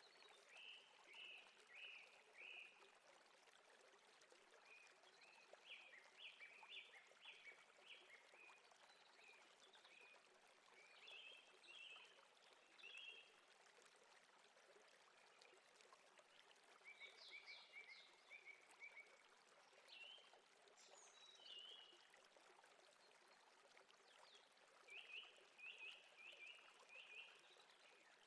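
Faint nature ambience: a running stream under series of short chirping calls that come in quick runs every few seconds.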